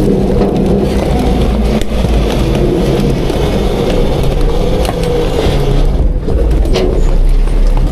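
Autocar-Heil front-load garbage truck running hard as its hydraulic packer compacts garbage: a steady low engine rumble with a pump whine, and a few sharp knocks and clanks from the load.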